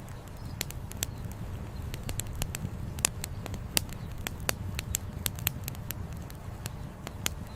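Wood campfire crackling, with irregular sharp pops of burning firewood several times a second over a steady low rumble.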